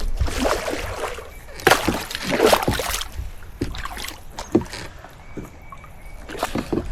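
Water splashing and sloshing around a fishing kayak in very shallow water, in several uneven bursts with a few knocks against the hull; the loudest burst comes about two seconds in.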